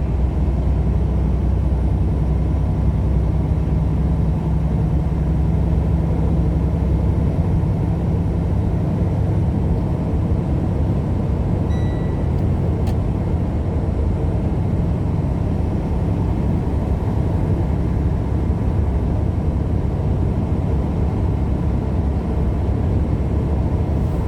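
Steady road and engine drone heard inside a moving vehicle's cabin, with a short high beep about twelve seconds in.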